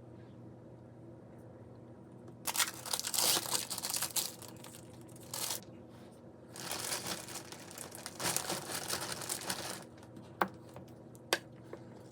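Plastic packaging crinkling as it is handled and torn open, in two stretches, followed by two sharp clicks near the end.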